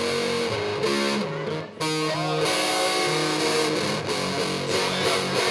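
Guitar-led live music playing the song's instrumental intro, with a brief drop in level just under two seconds in.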